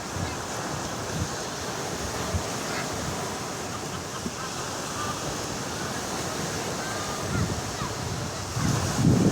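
Rough sea surf breaking steadily, with strong wind buffeting the microphone; the loudest rush of wind and surf comes near the end.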